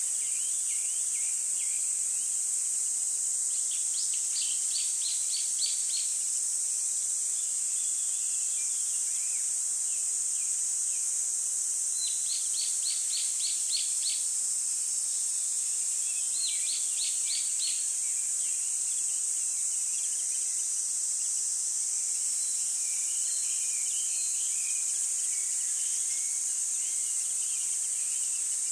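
Birds chirping over a steady high hiss: runs of about six quick, evenly spaced chirps come every few seconds, with softer scattered twittering between them.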